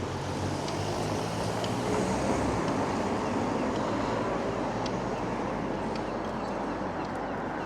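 Street traffic: a vehicle engine running close by and fading away about two and a half seconds in, over a steady hiss of traffic noise.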